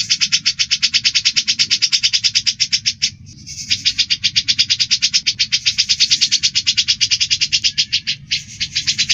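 Rapid, harsh bird chattering, about ten evenly spaced notes a second: the fight calls of a cucak jenggot (grey-cheeked bulbul) squabbling with a sparrow. The chatter breaks off briefly about three seconds in and again near the end.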